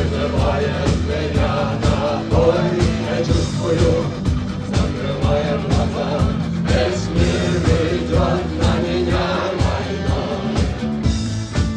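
Rock band playing live: a steady drum beat, bass and electric guitars, with a wavering melody line over the top.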